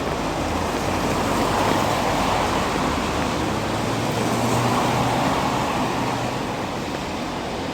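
Steady hiss of heavy rain. A vehicle engine's low hum swells and fades away over the first six seconds or so.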